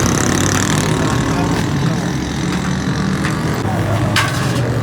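Motor-driven machinery running steadily with an even hum, and one sharp knock about four seconds in.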